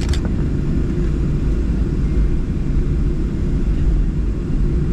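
Boeing 737-700 cabin noise while taxiing after landing: a steady low rumble from the idling engines and airframe. A short click comes right at the start.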